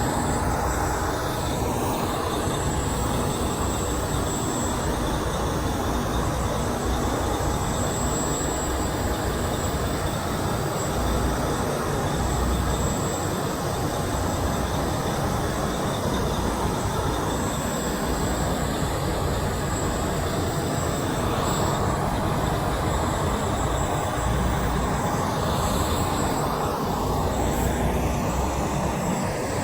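Steady, loud rumble of heavy vehicles passing, with no horn sounding.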